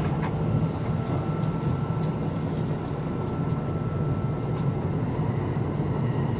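Running noise inside a Kintetsu 12200 series limited express car moving at speed: a steady low rumble of wheels on rail with faint scattered clicks. A faint steady high tone runs alongside and stops about three-quarters of the way through.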